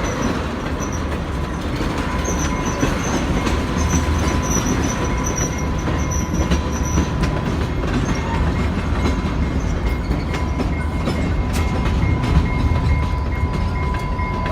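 A train rolling past: steady wheel-on-rail rumble with a thin, steady squeal running over it.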